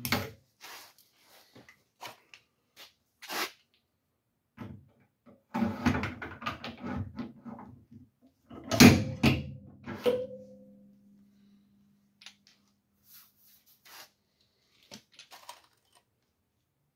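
Clicks and clanks of metal tools and parts being handled, busiest in the middle, with one loud metallic strike about nine seconds in that leaves a ringing tone fading over a few seconds.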